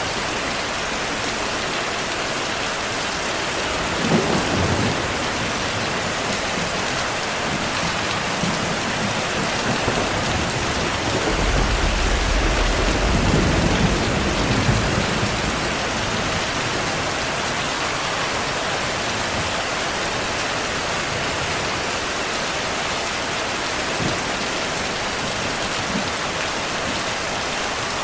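Steady heavy rainfall with thunder: a sharp clap about four seconds in, then a long low rumble through the middle.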